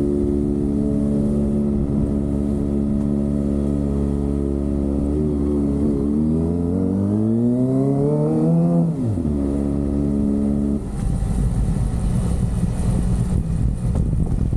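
Kawasaki ZX-25R's 250 cc inline-four engine held at steady revs, then revving up for about three seconds before the pitch drops sharply. From about two-thirds of the way in, the engine note gives way to an even rumbling noise.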